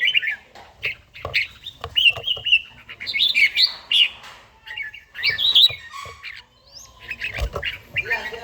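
Red-whiskered bulbul singing: short bursts of quick, bright warbling notes repeated every second or so with brief pauses between phrases. A single low thump about seven seconds in.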